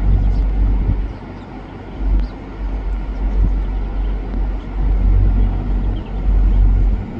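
Wind buffeting the microphone: a loud low rumble that surges and dips, easing briefly about one and a half seconds in and again near the end.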